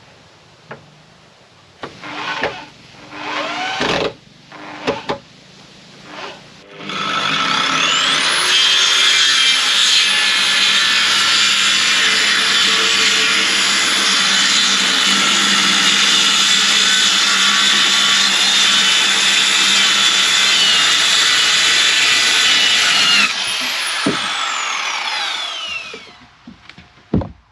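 A few knocks and handling clatter, then a power tool starts up with a rising whine and runs loudly and steadily for about fifteen seconds. It eases off and winds down with a falling whine.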